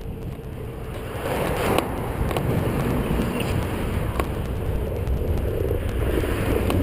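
Wind rushing over an action camera's microphone while cycling, growing louder about a second in, with a few faint clicks.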